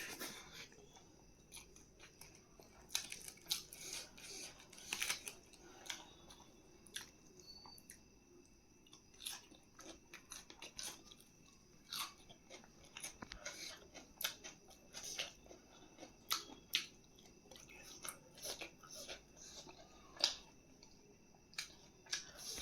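A person chewing and biting food close to the microphone in a mukbang: irregular soft mouth clicks and smacks, a few louder ones a few seconds in.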